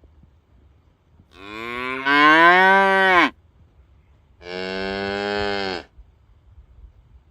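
Cattle mooing twice: a long, loud moo of about two seconds that rises in pitch and then holds, followed a second later by a shorter, steadier, quieter moo.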